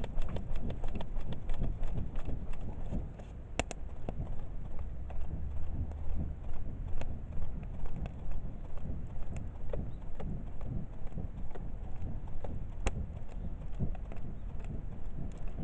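Wood fire crackling in a kamado, a steady run of irregular small pops with two sharper pops, one about three and a half seconds in and one near thirteen seconds, over a low rumble.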